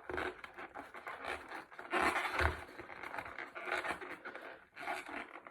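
Plastic packaging being scraped and pulled as an action figure is worked free of its box insert: irregular scratching and rustling, loudest about two seconds in.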